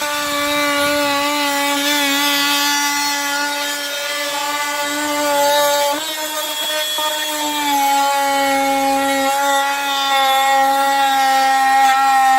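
Handheld power cutting tool running steadily with a high-pitched hum as it cuts through a hot tub's plumbing line; the pitch sags slightly about eight seconds in.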